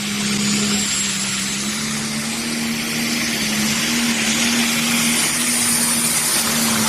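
Pro stock pulling tractor's single-turbocharged 680-cubic-inch diesel engine running flat out under load as it pulls the sled down the track: a loud, steady engine note with heavy rushing exhaust and turbo noise, and a thin high whistle joining about five seconds in.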